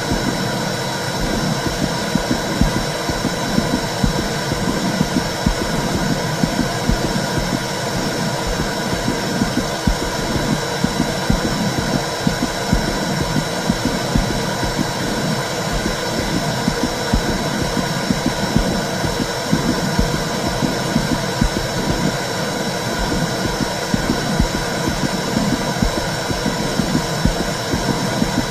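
Womb sound for soothing a baby: a steady, low whooshing rumble with repeated soft low pulses beneath it, like a heartbeat heard from inside the womb.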